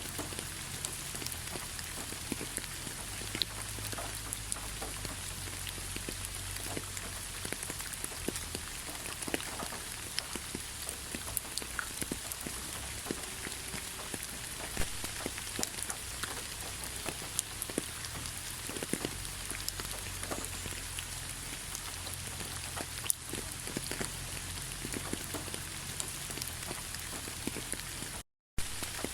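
Steady rain, with many individual drops ticking on a surface. The sound cuts out for a split second near the end.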